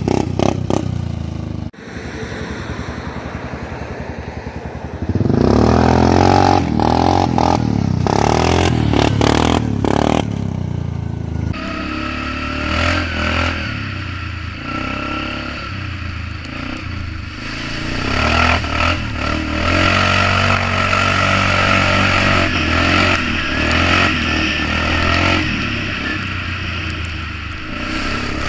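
Polaris Magnum 425 ATV's single-cylinder four-stroke engine running through a DG Performance RCM-II aftermarket muffler: a short idle, then revving and steady riding with the throttle rising and falling.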